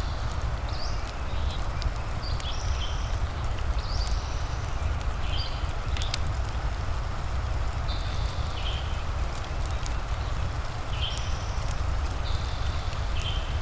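Fireplace crackling, with sharp pops scattered through a steady hiss of rain and a low rumble. Short high calls recur every second or two over the top.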